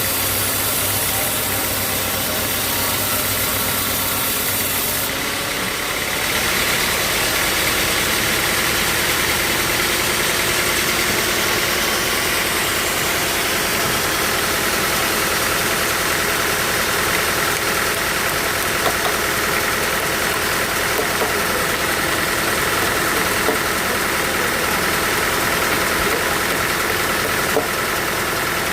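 Sawmill machinery running steadily, a dense mechanical din with a high whine, changing pitch and character about six seconds in, with a few small clicks later.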